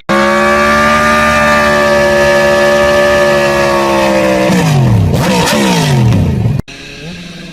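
Motorcycle engine held at high revs at a steady pitch. About four and a half seconds in, the revs fall away sharply with a couple of quick blips. Then an abrupt cut to a much quieter engine running.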